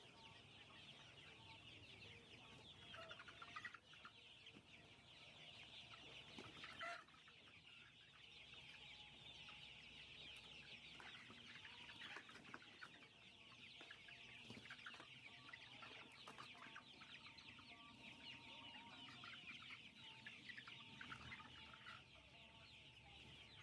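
Faint, continuous clucking and chirping of a flock of chickens, many short calls overlapping, with a few louder calls about three and seven seconds in.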